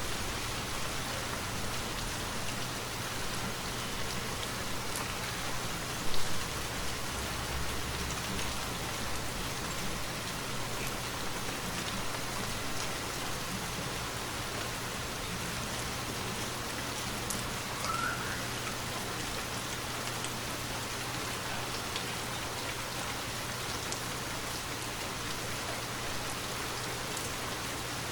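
Steady rainfall, an even hiss of drops pattering on foliage and surfaces. About six seconds in there is a single brief, loud knock.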